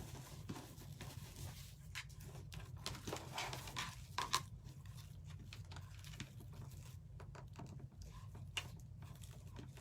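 Deco mesh and wreath parts being handled and reworked by hand: scattered soft rustles and small clicks over a low steady hum.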